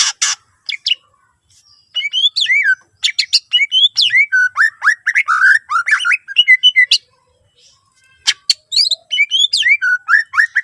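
A green leafbird (cucak ijo) singing in rapid bursts of sweeping whistled notes and chirps, in two long phrases with a short pause between.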